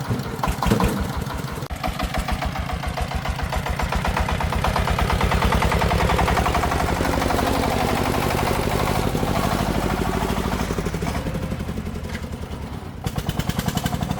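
Single-cylinder diesel engine of a công nông farm truck running with a steady firing beat that quickens and gets louder a few seconds in, eases back, then turns sharper and louder about a second before the end.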